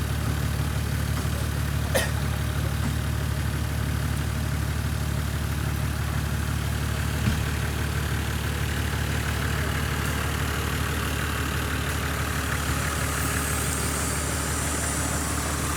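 Toyota Land Cruiser engine idling steadily, with two short knocks, one about two seconds in and one about seven seconds in. A hiss builds near the end.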